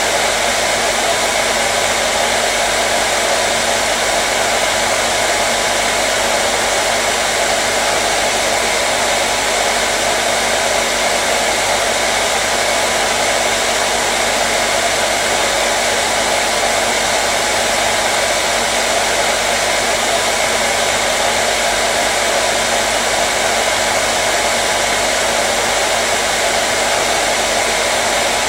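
Hair dryer running steadily: a constant airy rush with a faint low hum, unchanging throughout.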